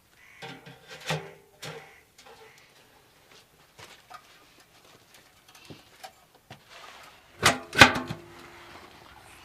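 A series of knocks and clatters from objects being handled, with brief ringing after some of them; a cluster comes about a second in, and the loudest pair about two seconds before the end.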